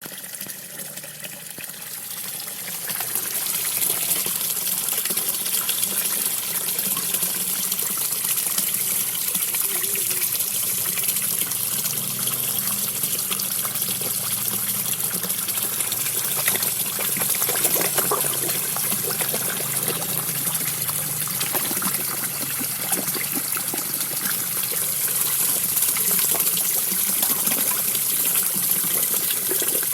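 A small waterfall splashing steadily into a koi pond, with many quick pops and splashes from koi feeding at the surface. It fades in over the first few seconds.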